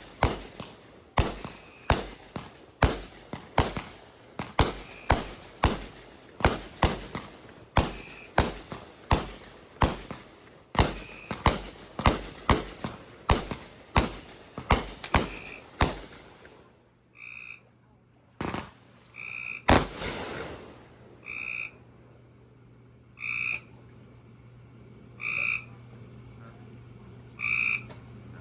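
A big fireworks cake fires a fast, even string of bangs, about one and a half a second, that stops after some sixteen seconds, followed by two last single bangs. After that a frog croaks about every two seconds, with a low steady hum underneath.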